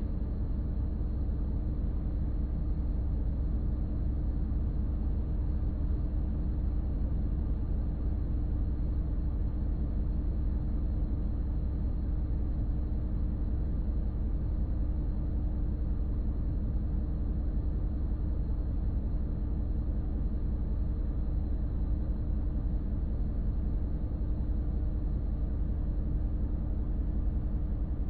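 Diesel city bus with an automated manual transmission, heard from on board: the engine runs at a steady speed with a low rumble and an even hum throughout.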